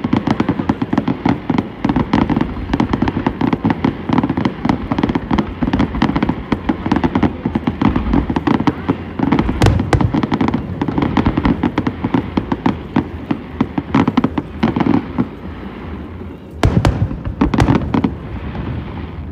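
Fireworks display: a dense, continuous barrage of crackling bursts and bangs, with a few louder bangs near the end before it thins out.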